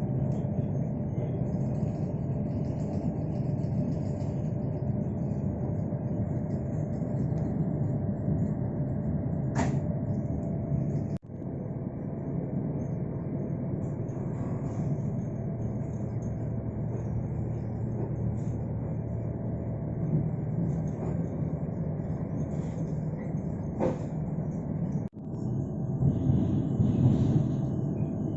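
Passenger train running on the rails: a steady low rumble with a faint steady hum, with a couple of sharp clicks, breaking off abruptly twice.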